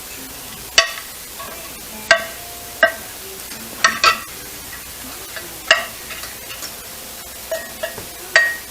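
A spoon clinking against a pan about seven times, each clink short and ringing, as sauce is spooned into the bottom of a baking pan, over a steady hiss.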